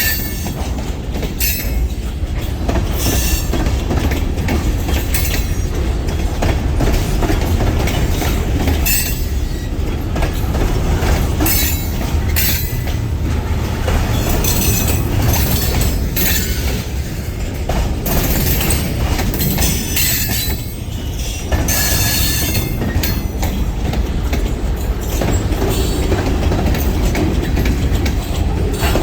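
Freight train rolling past with a steady low rumble of wheels on rail. Metal wheels squeal on the rails again and again, in short high-pitched bursts that come and go.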